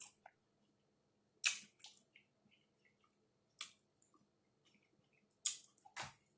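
Eating a taco: a few short, separate crunches of biting and chewing, with quiet in between and two close together near the end.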